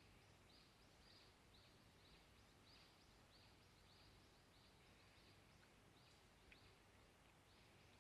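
Near silence, with faint short high chirps repeating about twice a second.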